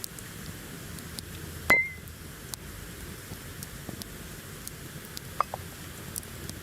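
A glass clinking once, sharp with a short ring, just under two seconds in, and a fainter clink near the end, over the faint crackling of a campfire.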